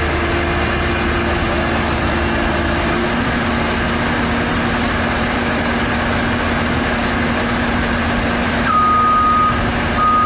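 Heavy vehicle's engine running steadily. Near the end a reversing alarm starts beeping: two long single-pitch beeps.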